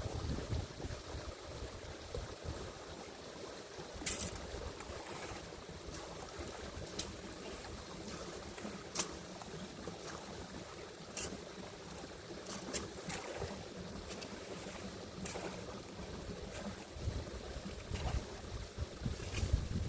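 Garden stream water running steadily, with wind gusting on the microphone and scattered short clicks.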